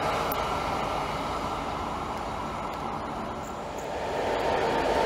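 Running noise of a Plasser & Theurer track maintenance machine moving away along the rails, fading. From about three and a half seconds in, the noise of an approaching freight train hauled by a Czech class 130 electric locomotive grows louder.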